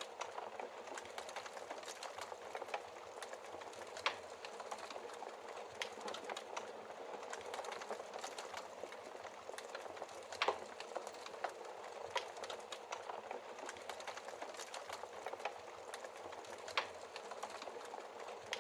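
Wood fire crackling in a fireplace: a steady hiss with frequent small snaps and a few louder pops spread through.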